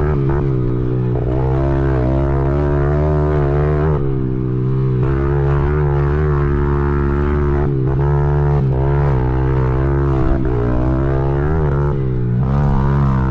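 Honda XR100's small single-cylinder four-stroke engine being ridden, the revs rising and falling every second or so with throttle and gear changes.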